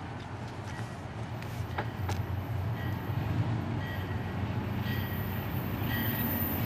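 Approaching train: a low rumble that grows steadily louder, with faint high ringing tones recurring about once a second from about three seconds in.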